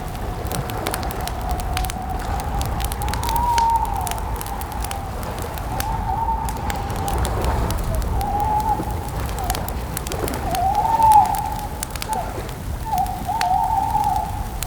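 Campfire crackling with scattered sharp pops, over a continuous whistling tone that wavers in pitch and swells louder several times, with a low rumble beneath.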